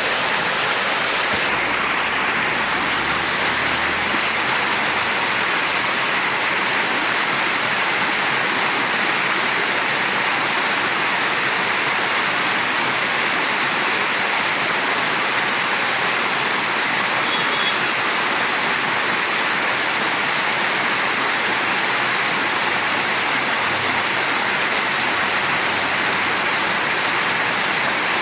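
Mountain stream rushing over rocks, a steady, unbroken flow of water.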